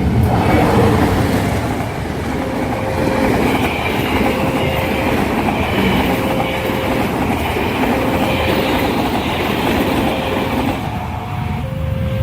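A train passing at speed over the crossing, its wheels clattering over the rail joints. Through it, a level-crossing alarm sounds a short tone about every second. The train noise eases off near the end.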